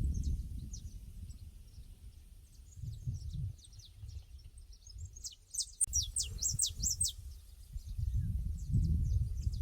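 Pasture ambience: small birds chirping in quick, high, downward-sliding notes, with a louder flurry of calls from about five and a half to seven seconds in, over a low rumbling noise that swells and fades.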